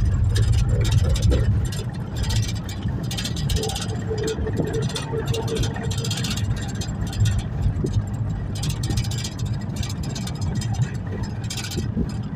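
Road vehicle travelling along a road: a steady low rumble of engine and road noise, with hiss that swells and fades every second or so.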